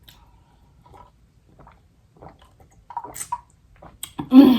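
Quiet chewing and small wet mouth sounds, then a woman's voice comes in loudly near the end.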